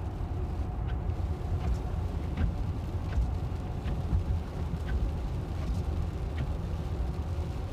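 Steady low tyre-and-road rumble heard inside a Tesla electric car's cabin while it drives, with no engine note. Faint regular ticks come a little more often than once a second.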